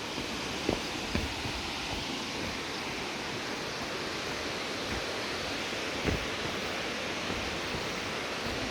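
Steady rushing roar of a waterfall's falling water, with a couple of soft knocks about a second in and again about six seconds in.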